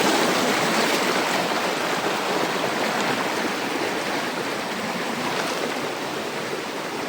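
Rocky jungle river rushing over stones: a steady, loud rush of water that eases off slightly over the seconds.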